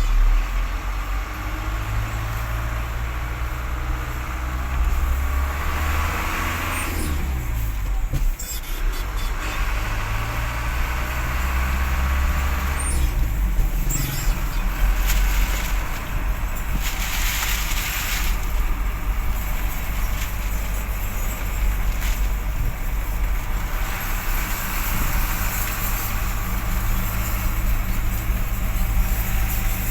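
Truck's diesel engine running, its pitch falling and rising a few times as it changes speed, with several short bursts of hiss.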